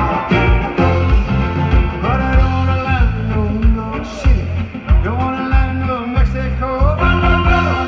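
Live band playing an upbeat island-style rock song, a lead voice singing over a steady pulsing bass beat.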